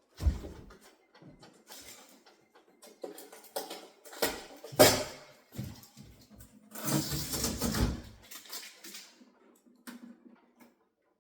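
Irregular handling noises from unpacking and fitting a refrigerator: a thump right at the start, scattered knocks, a sharp knock near the middle, and a second or so of scraping and rustling before it quiets down.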